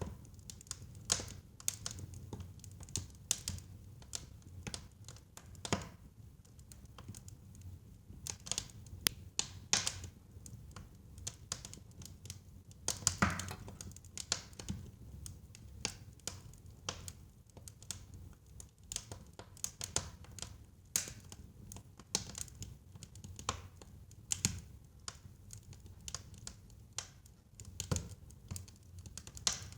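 Wood fire burning in a fireplace: irregular crackles and sharp pops over a faint low rumble of the flames, a few pops louder than the rest.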